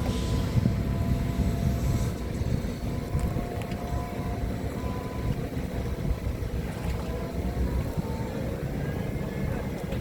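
Forklift engine running with a steady low rumble and faint whining tones over it.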